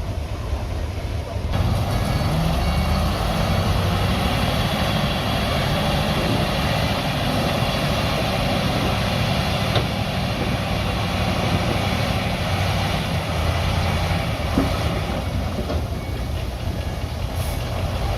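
Diesel engine of heavy earthmoving machinery running steadily under load, getting louder about a second and a half in.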